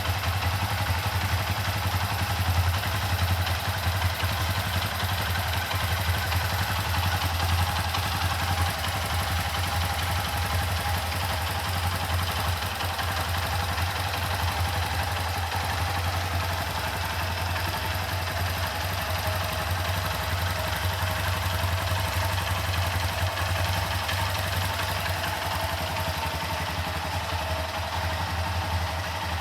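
Honda FTR223's single-cylinder four-stroke engine idling steadily, a little louder for the first several seconds and then even.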